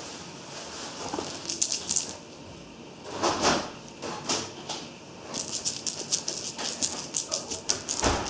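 A kitten playing, making quick scratchy clicks and rustles. They come in a run about a second and a half in and again in a longer, rapid run from about five seconds on, with a louder rustle about three seconds in.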